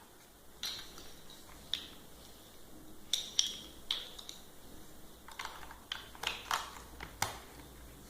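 Plastic building blocks clicking and clattering as they are handled and fitted together: a dozen or so short, sharp clicks at irregular intervals, thickest in the second half.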